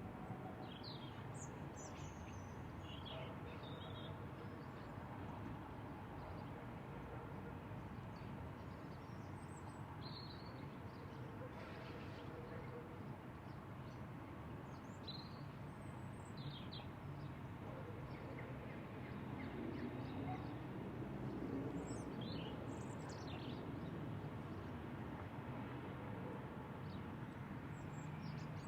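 Songbirds chirping in short, scattered calls over a steady low outdoor background hum.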